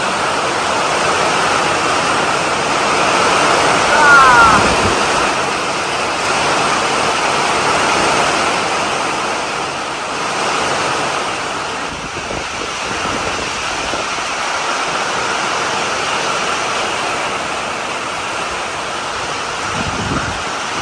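Wood-Mizer LX55 portable band sawmill running under load, its band blade cutting through a poplar log with a steady rushing noise. About four seconds in there is a short high squeak.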